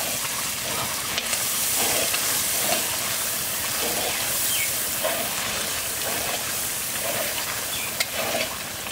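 Cow intestine curry sizzling and hissing steadily in a large iron pot over a wood fire, steam pouring off it. A wooden spoon stirs through the pieces in regular strokes, with a couple of sharp clicks.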